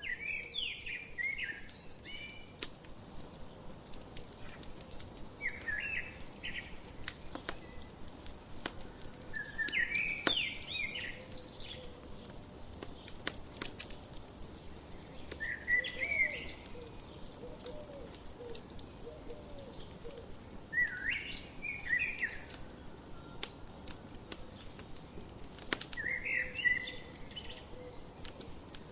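A songbird repeating a short chirpy phrase about every five seconds, over scattered pops and crackles of a wood fire in a fireplace.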